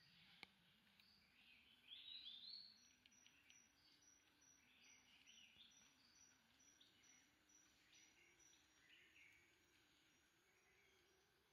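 Faint forest ambience: scattered bird chirps and calls, loudest in a short burst about two seconds in, over an insect's regular high pulsing chirp. A single sharp click comes near the start.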